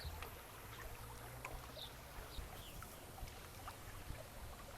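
Faint outdoor ambience: a steady low rumble with a few short, faint high chirps and ticks scattered through it.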